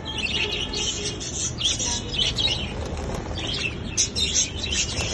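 Lovebirds chattering in a dense run of rapid, high-pitched chirps, with wings flapping.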